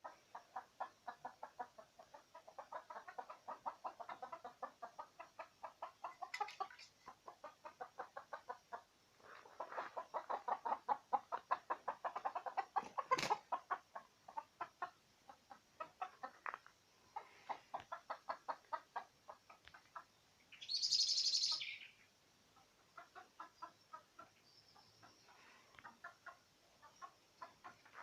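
A chicken clucking in long runs of quick, evenly spaced clucks, with one sharp click partway through. A short, loud, harsh burst of noise comes about three quarters of the way in.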